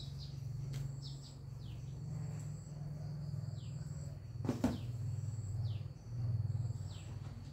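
A bird calling in short downward-sliding chirps about once a second, over a steady high insect drone and a low steady hum. A brief louder knock about halfway through.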